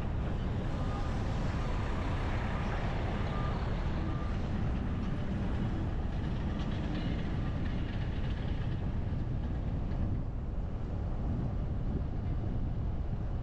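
Steady road and engine rumble of a car driving, with a low, even noise and no breaks.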